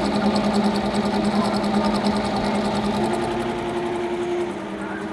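LEO embroidery sewing machine running and stitching at speed, a steady motor hum with a fast, even needle rhythm. Its pitch shifts about three seconds in, and it quietens slightly near the end.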